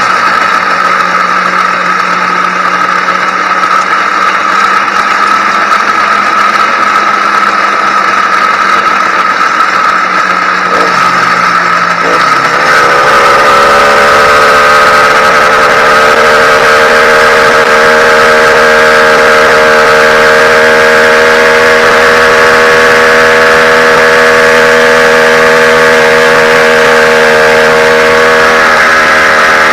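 YD100 two-stroke motorized-bicycle engine running during its break-in. About twelve seconds in it gets louder and its pitch rises a little, then holds steady at the higher speed.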